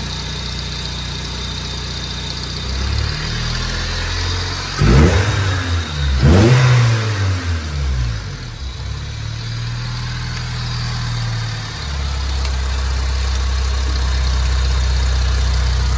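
Honda four-cylinder engine idling, revving up and falling back twice about five and six seconds in, then settling back to a steady idle. It is running on a newly installed high-performance fuel pump while its fuel pressure regulator is being adjusted.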